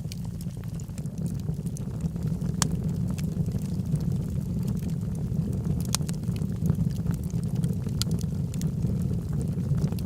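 Wood fire burning in a fireplace: a steady low rumble of flames with scattered crackles and pops, the sharpest pops about two and a half, six and eight seconds in.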